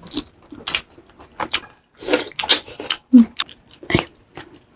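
Close-up eating sounds: biting and chewing crunchy food, a string of short sharp crunches and crackles, with a brief hummed 'mm' about three seconds in.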